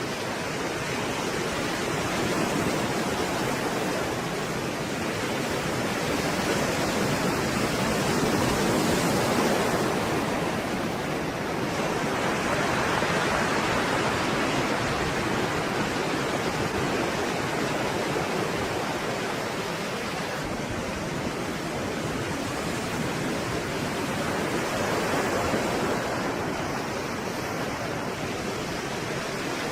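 Stormy sea surf: a continuous wash of breaking waves that swells and eases slowly every few seconds.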